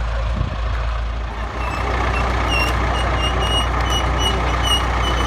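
Reynolds Boughton truck engine running steadily and getting louder about one and a half seconds in, as it pulls under load, with a run of short high-pitched beeps repeating about three times a second.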